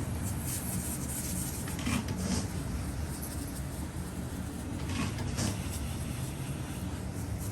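Carpet pre-spray being sprayed in several short hissing bursts over a steady low machine hum.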